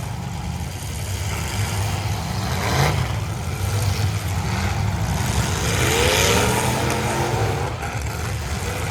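Demolition derby cars' engines running and revving together, with a single sharp bang of a collision about three seconds in and an engine's pitch rising and falling around six seconds.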